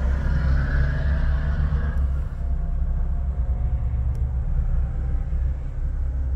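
A warmed-up 2006 Jeep Wrangler Rubicon's 4.0-litre inline-six running on the move, heard from inside the hardtop cabin as a steady low rumble. A lighter hiss above it fades out about two seconds in.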